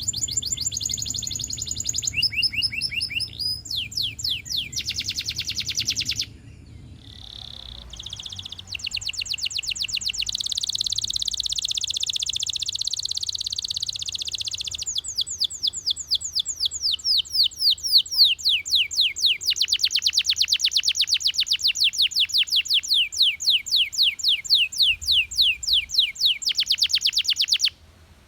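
Russian canary singing: fast trills and rolls of rapidly repeated notes, with a brief break about six seconds in, then a long run of evenly repeated strokes, several a second, that stops abruptly near the end.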